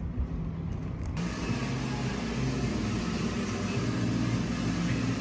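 Car driving, heard from inside the cabin: a steady engine hum under road noise. The noise gets louder and brighter about a second in.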